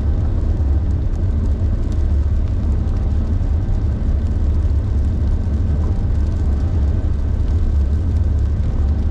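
Car driving at speed: a steady, loud low rumble of road and engine noise, with faint scattered ticks above it.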